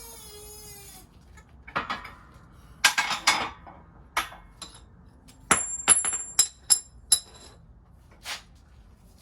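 Metal tools knocking and clinking against steel differential parts while a bearing is worked into place: a series of sharp metallic knocks, several with a brief ringing tone, clustered around the middle.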